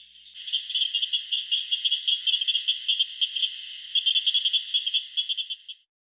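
Southern cricket frogs calling: a long run of rapid, sharp clicks at a high pitch, starting about half a second in and stopping shortly before the end.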